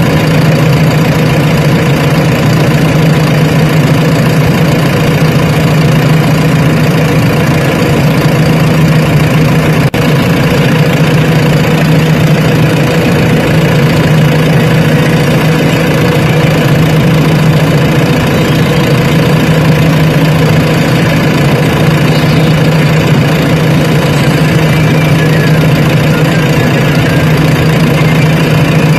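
Diesel engine of heavy earth-moving machinery running steadily, a constant drone that holds one speed without revving.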